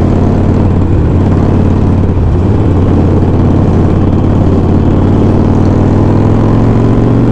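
A vehicle engine running steadily at low revs, idling or creeping along in stalled traffic.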